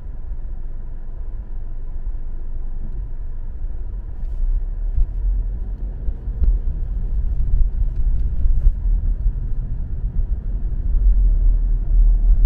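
Car driving, heard from inside the cabin: a steady low road and engine rumble that grows somewhat louder over the last few seconds.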